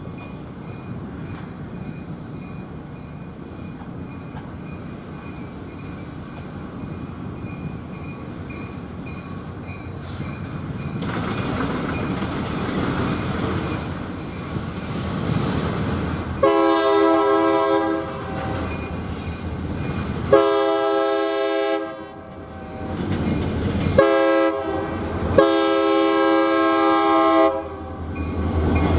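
Locomotive air horn on an approaching train, sounding the grade-crossing pattern: two long blasts, a short one, then a long one. Each blast is a loud multi-note chord. A rising rumble of the train's approach comes before the horn, and wheel clatter comes with it.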